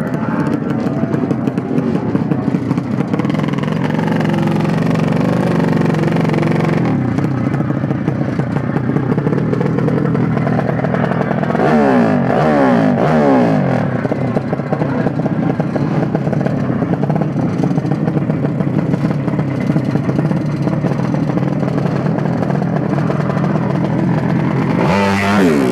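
Motorcycle engines running and revving. The pitch sweeps up and down about twelve seconds in, and there is a short sharp rev near the end.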